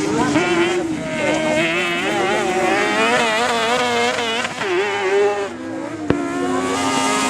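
Several kart cross engines racing together, each revving up and down as the karts accelerate and lift off. A single sharp crack about six seconds in.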